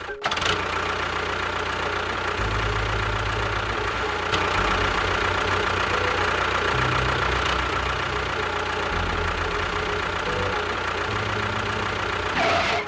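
An engine running steadily near idle. Its low rumble shifts in pitch in steps about every two seconds.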